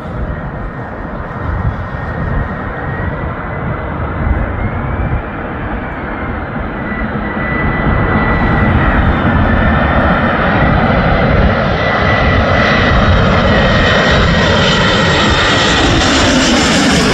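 Airbus A340-300's four CFM56 turbofan engines on arrival: a deep rumble with a steady high whine on top, growing louder about halfway through as the airliner comes closer.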